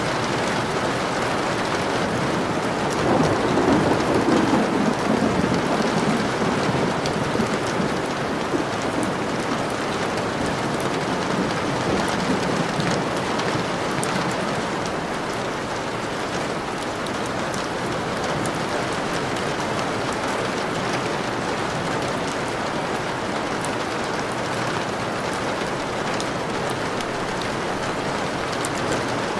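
Steady rain falling, with a low roll of thunder swelling about three seconds in and fading over the next few seconds.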